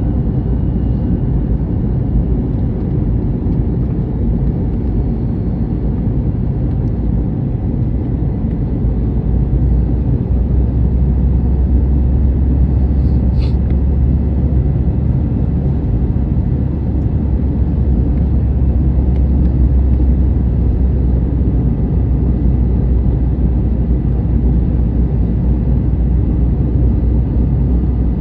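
Airbus A321neo passenger-cabin noise in flight: a steady, deep rumble of engines and airflow. A single light click comes about halfway through.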